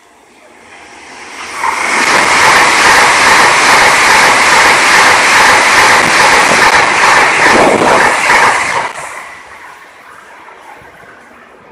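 Train passing at speed close by: a loud rushing noise that builds over about a second, holds for about seven seconds, then falls away.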